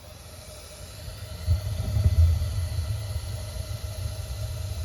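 Gas water heater's main burner lighting and then burning steadily, with a low rumble of flame that swells about a second and a half in and then holds, over a faint hiss of gas.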